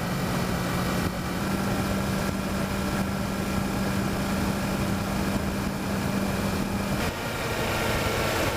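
Kawasaki Versys motorcycle engine running at a steady cruising speed with wind rush and turbulence over it. The engine note steps up slightly about a second and a half in and drops back about seven seconds in.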